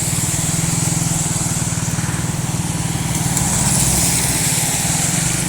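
A small engine running steadily close by, its firing pulses fast and even, over a steady high hiss of rain.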